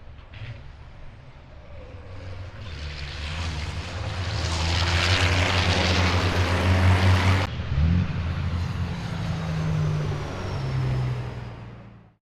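Racing truck diesel engine growing louder as it approaches and passes at speed. About seven and a half seconds in the sound cuts abruptly to another engine note that rises in pitch and then holds steady before fading out near the end.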